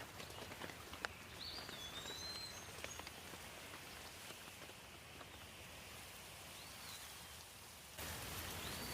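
Light rain falling, with individual drops ticking, and a bird giving a few short rising-and-falling chirps. The rain gets suddenly louder near the end.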